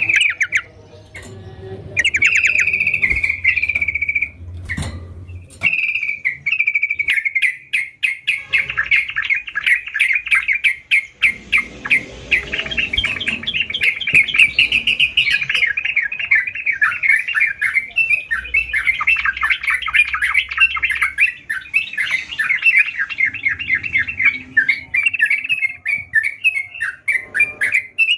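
Yellow-vented bulbul (trucukan) singing: a few short phrases at first, then a long, fast run of chattering notes from about six seconds in.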